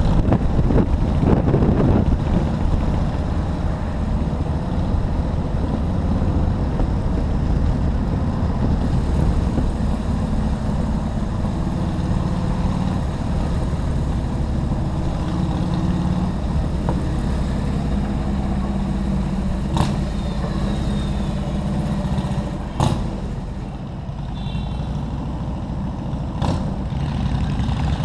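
Motorcycle engine running steadily while riding, with road noise. Three sharp clicks come in the last third, and the engine eases off for a few seconds before rising again near the end.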